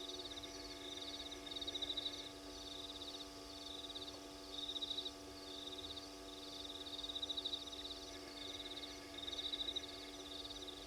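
Night insects trilling in a chorus of rapid, high-pitched pulses that swell and fade in bursts every second or two, over a steady low hum.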